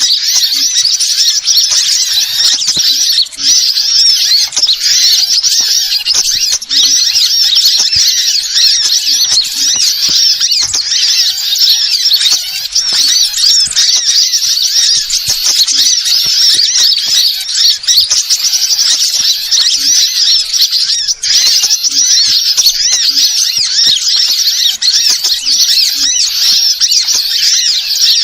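Small birds chirping and twittering densely and without a break, with many high-pitched calls overlapping. This is a bird-lure (pikat) call recording.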